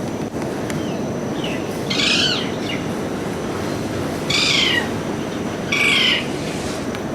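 A parrot giving three loud, short calls a couple of seconds apart, each falling in pitch, over a steady low background hiss.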